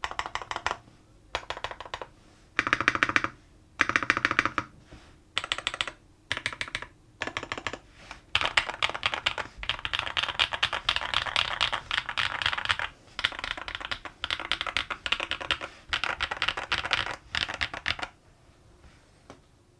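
Neo80 mechanical keyboard, built with stock Gateron Type R switches on an aluminum plate with TX stabilizers and case foam, being typed on. Rapid keystrokes come in short bursts with brief pauses, then a steady run of fast typing lasting about five seconds in the middle, then more bursts. The typing stops near the end.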